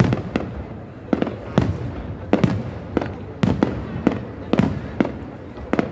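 Aerial fireworks shells bursting in a string of sharp bangs, about one or two a second, each with a short echoing tail, over a steady rumble.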